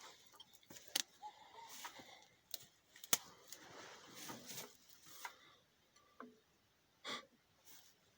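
Scattered light clicks and knocks, with sharper clinks about one and three seconds in and another near the end, and soft rustling between them: tools and metal parts being handled.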